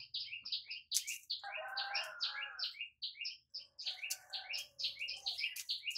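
Small birds chirping rapidly and without pause, several high chirps a second, with two longer, lower drawn-out calls about one and a half and four seconds in.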